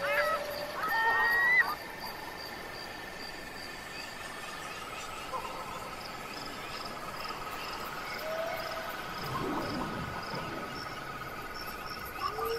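A chorus of calling animals, frogs and insects by the sound of it. A high chirp repeats about three times a second over a steady trill, with short calls scattered through it; the loudest come in the first two seconds.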